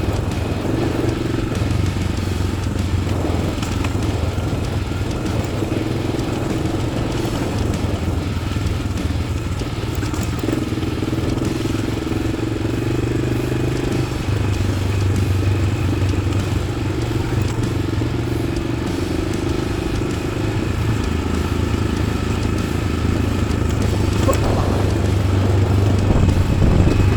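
1993 Yamaha XT600's single-cylinder four-stroke engine, with an Arrow exhaust, pulling steadily while riding off-road. Its note shifts up and down a few times as the throttle changes.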